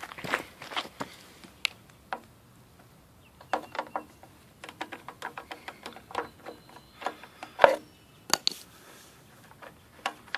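Irregular light clicks and knocks of hands handling things, with one sharper knock a little before the end.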